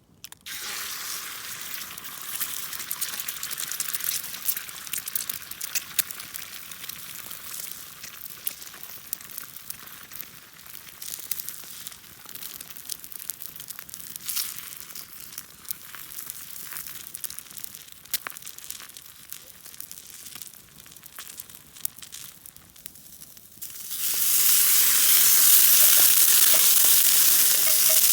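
Food frying in a pan: a steady sizzle dotted with sharp pops and crackles. It jumps noticeably louder about 24 seconds in.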